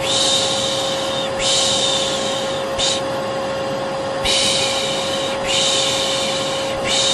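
Vacuum cleaner running with a steady hum, with a person shushing over it: two long "shhh"s and then a short one, in a repeating pattern, used as a soothing sound to help a baby fall asleep.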